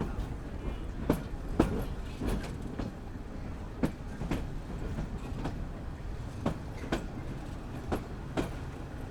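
Train wheels clacking over rail joints under a steady low rumble, heard from inside a moving local passenger train. The knocks come at uneven intervals, often in close pairs about half a second apart.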